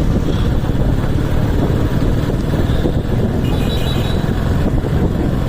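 Motorcycle on the move at a steady pace: engine running under a constant rush of wind on the microphone.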